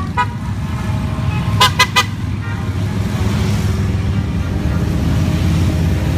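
A steady stream of motorcycles rumbling past, with a horn tooted three times in quick succession about a second and a half in.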